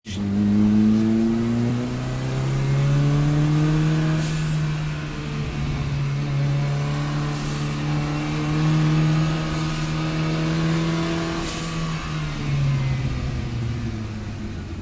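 Saab 9-3 race car's engine under hard acceleration, its note climbing and then dropping at each of four gear changes a few seconds apart, each change marked by a brief hiss. Near the end the note falls away as the car comes off the power.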